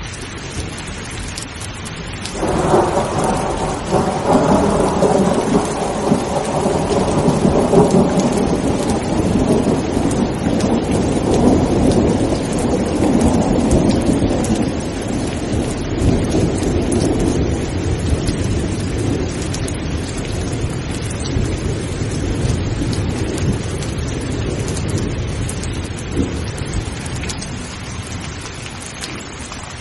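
Steady heavy rain with thunder that breaks in suddenly about two seconds in, rolls on for several seconds, then slowly fades away.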